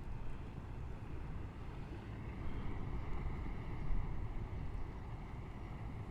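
Low, rough outdoor rumble with wind buffeting the microphone.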